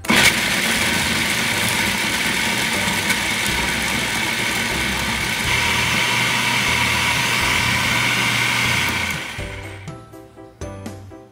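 Electric food processor running steadily, grinding blanched almonds into a coarse meal. It starts abruptly and stops about nine seconds in.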